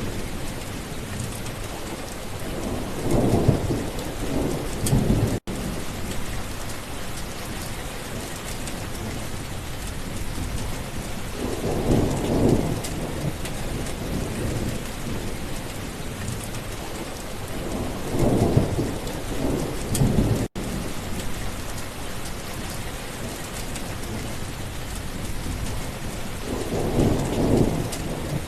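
Steady rain with thunder rumbling four times, each low roll swelling and fading over a second or two. The sound drops out for an instant twice.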